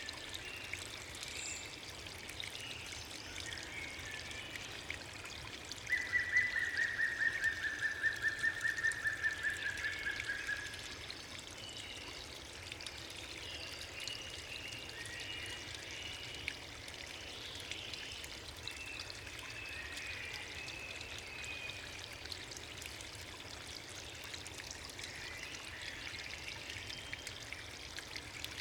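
Steady rush of flowing water in the gorge, with scattered bird chirps. About six seconds in, a bird sings a rapid trill for about four seconds, dropping slightly in pitch; this trill is the loudest sound.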